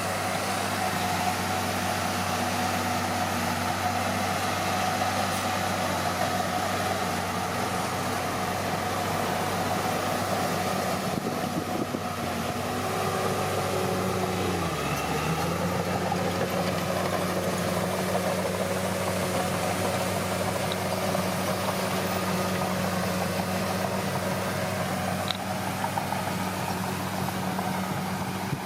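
Komatsu D41P bulldozer's diesel engine running steadily; about halfway through its pitch dips briefly and recovers, settling at a slightly higher steady note.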